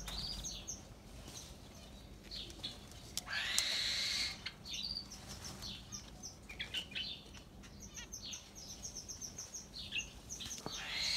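Small aviary birds chirping: many short, high chirps scattered throughout, with a louder, longer burst of sound lasting about a second around three seconds in.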